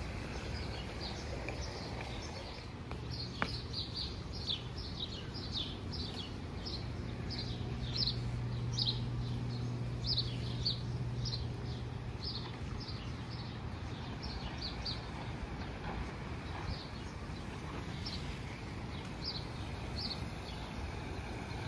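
Birds chirping: many short, quick, falling notes repeated irregularly through most of the stretch, over a steady low outdoor rush. A faint low hum sounds in the middle.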